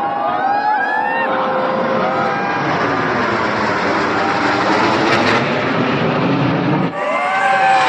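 Jet aircraft flying over, a loud steady rushing roar that builds over the first couple of seconds and cuts off abruptly near the end, with crowd voices and shouts over it at the start and again after the cut.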